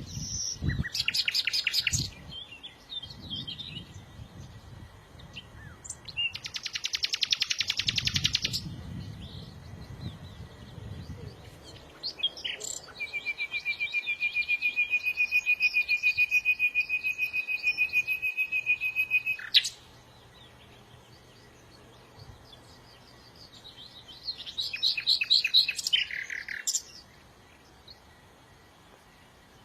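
A small songbird singing in rapid, buzzy pulsed phrases, including one long even trill lasting about seven seconds in the middle, with short pauses between phrases.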